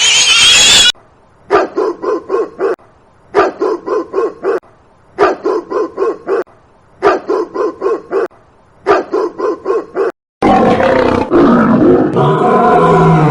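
Animal calls: a rapid pulsing call repeated five times, each bout about a second long and a little under two seconds apart, then a different loud, harsh call near the end.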